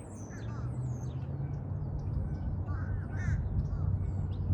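Wild birds calling, with many short, quick chirps and cawing calls overlapping, over a low steady hum that swells from about half a second in.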